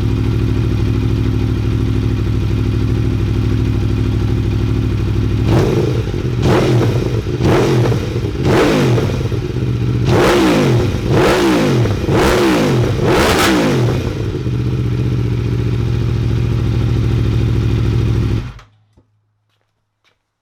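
Aprilia Tuono V4 1100's V4 engine through an Akrapovic exhaust with the baffle (dB killer) removed: idling, then a run of about ten quick throttle blips, each revving up and falling back, then idling again before the engine is switched off about 18 seconds in. Really loud, with a bass growl.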